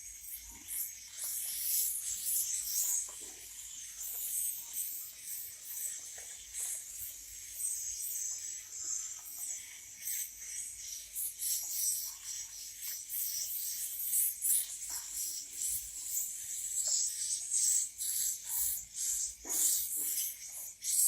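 Swiftlets giving a continuous stream of rapid, high, hissy chirps, the sound of young birds being hand-fed.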